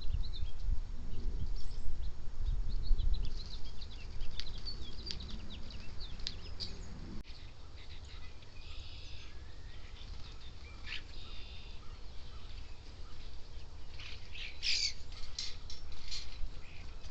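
Backyard birds chirping and calling in short, high notes, with a few harsher squawks, and a burst of louder calls near the end. A low rumble underlies the first seven seconds or so, then stops.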